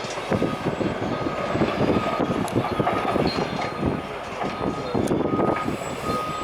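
Heavy demolition excavator working through building rubble: continuous crunching and clattering of broken concrete and masonry, with a thin high whine that comes and goes.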